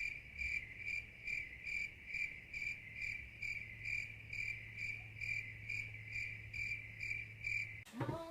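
A cricket chirping steadily, about two chirps a second, over a low steady hum.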